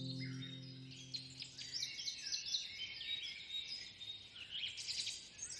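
Birds chirping and singing, many short high notes repeated in quick runs, with the last held notes of soft music fading out in the first second.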